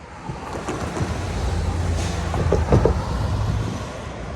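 Freight locomotives' diesel engines running with a low steady rumble, the lead unit a GE AC4400CW.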